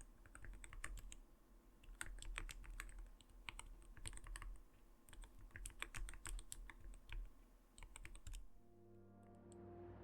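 Typing on an Arbiter Studio Polar 65 mechanical keyboard with clear keycaps: bursts of soft, knocking key clicks ("kotokoto"). The typing stops about eight and a half seconds in, and soft ending music with held tones begins.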